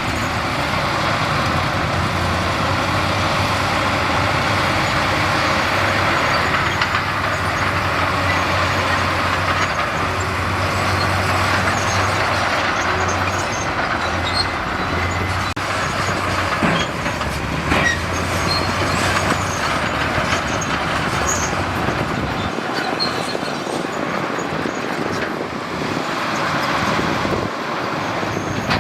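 Heavy diesel earthmoving machinery running steadily, with a continuous engine drone and scattered clanks and knocks. The low engine hum drops away about three quarters of the way through.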